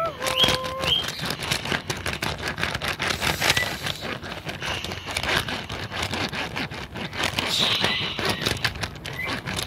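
Subway train: the last note of the descending two-tone door chime, then the car rattles and clicks steadily along the track as it runs.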